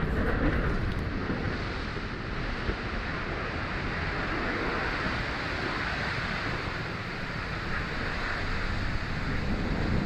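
Atlas V rocket's RD-180 main engine during ascent just after liftoff: a steady, rumbling rush of noise.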